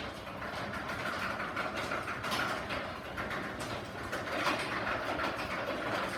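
Garage door opener running the door along its tracks: a steady motor drone with a constant whine and a clatter of small rattles and clicks, likely the door's rollers and hardware.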